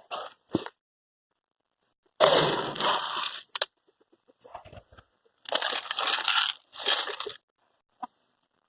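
Dry chicken feed being poured or scooped into a feeder container in three rattling pours, the first the longest and loudest, with small clicks of grains and handling between them.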